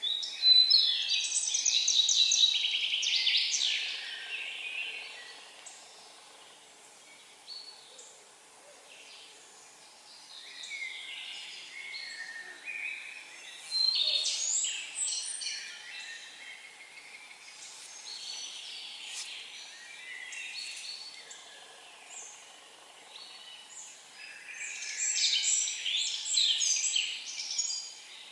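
Songbird singing outdoors in repeated phrases of rapid high chirps, each about three to four seconds long and coming roughly every ten to twelve seconds, with fainter bird calls in between.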